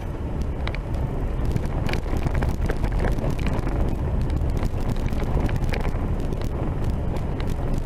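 Vehicle driving on a rough dirt road: a steady low rumble of engine and tyres, with frequent small clicks and rattles from bumps and loose stones.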